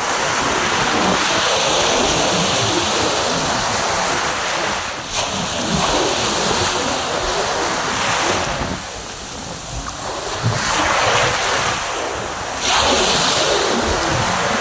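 Sea waves washing in on a beach, the surf hiss swelling and easing several times, with gusty wind on the microphone.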